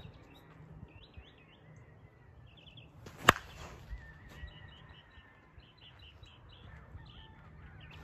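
Small birds chirping over and over, with a single sharp knock and a brief ring about three seconds in.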